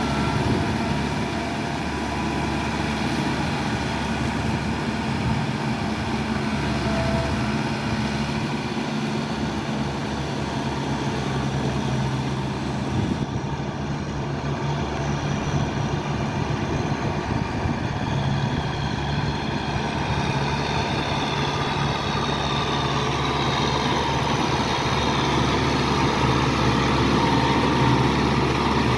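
Kubota farm tractor's diesel engine running steadily as it works a muddy rice paddy, growing a little louder near the end.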